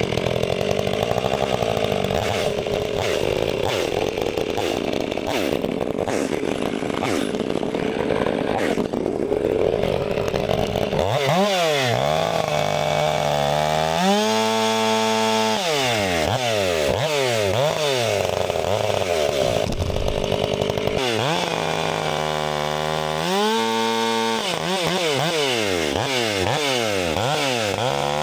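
Gas chainsaw cutting through a hickory log under load for about the first ten seconds. After that the engine revs rise and fall over and over, climbing from a low, steady speed to full revs and dropping back.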